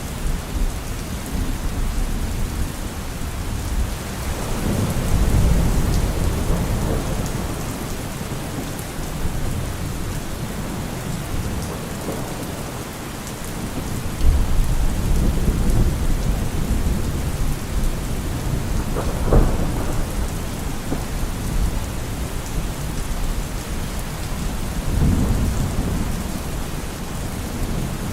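Steady rain with rolling thunder: low rumbles swell and fade several times, and there is one sharper thunderclap about two-thirds of the way through.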